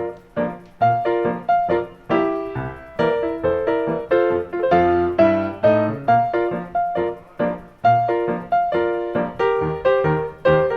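Background piano music: a steady run of single notes, each struck and fading.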